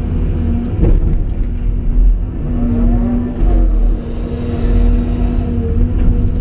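A CAT 349E excavator's diesel engine and hydraulics running with a deep, steady rumble and held whine, rising and falling in pitch once around the middle. There is a single knock about a second in.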